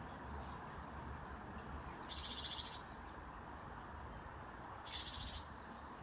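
A garden bird gives a short rattling call twice, about two seconds in and again near the end, with a few faint high chirps between, over a steady low wind rumble.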